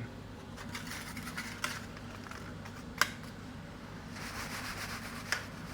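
A steady fan hum with light kitchen handling sounds: a few soft ticks and one sharp click of a utensil against the frying pan about three seconds in. A brief soft sizzle follows, then another click near the end, as pieces of frying halloumi are moved around the pan.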